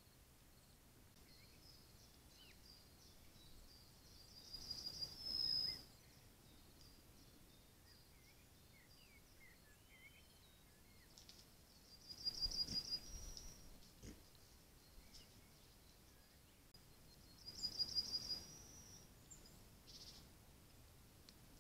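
A songbird singing the same short song three times, a fast run of high repeated notes ending on a slightly higher note, with faint scattered chirps between the songs.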